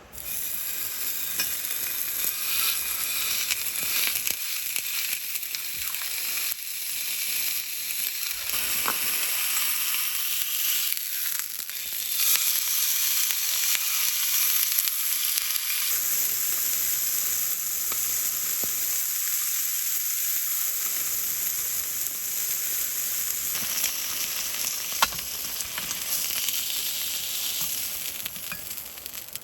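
Food frying in a pan: a steady crackling sizzle, with one sharp pop near the end.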